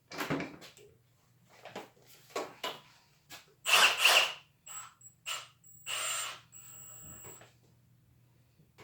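Short bursts from a cordless impact driver as a screw is started into wood, with a faint high motor whine, amid clicks and knocks of the tool and screw being handled.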